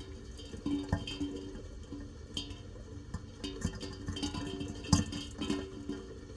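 Irregular dripping and splashing of rain water, with the sharpest splash about five seconds in, over soft low plucked-string notes.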